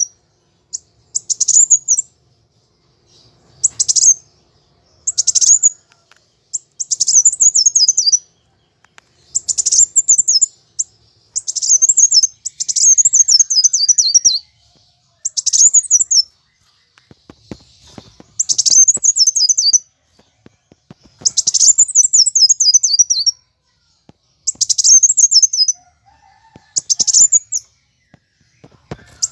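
Kolibri wulung sunbird (kowul) singing its aggressive fighting song: bursts of rapid, very high-pitched twittering notes, each phrase sliding downward and lasting one to two seconds, repeated about a dozen times with short pauses between.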